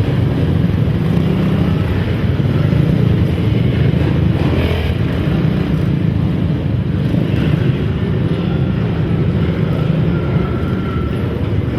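Engines of racing quads (ATVs) running together as a dense, steady engine noise.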